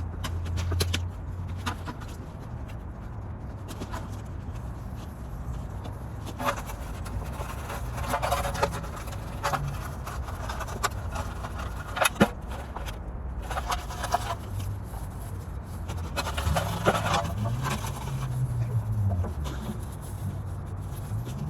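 Scattered knocks, clicks and scraping of tools and metal parts being handled and put away during cleanup, with a low steady rumble underneath.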